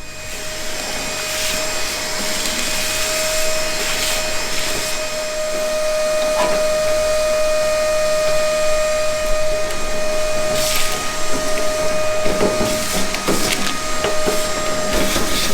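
Power grinder running steadily with a high whine, cutting into the rusted steel of a car's front sill, with rougher scraping bursts where the disc bites in the second half. It is cutting away rot to expose the damaged metal.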